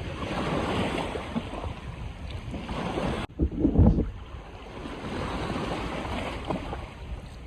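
Surf washing on a beach with wind blowing across the microphone. Just past three seconds the sound cuts off abruptly, then a loud, low rumble of wind buffets the microphone for under a second before the surf and wind go on.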